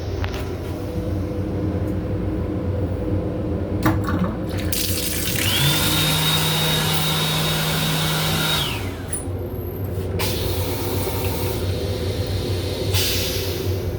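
Toilet in a Metro-North M7 railcar restroom flushing: a rush lasting about four seconds, starting about five seconds in, with a steady hum and a high whine, over the steady rumble of the moving train.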